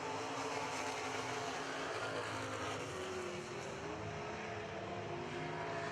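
Super Truck race engines running on a dirt oval, several at once, their pitches rising and falling as the trucks lap.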